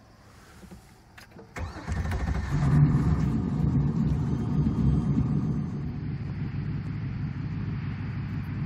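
A 475 hp Corvette V8 in a boat starting up: a couple of clicks, then the engine catches about a second and a half in, runs up briefly and settles into a steady, lumpy idle.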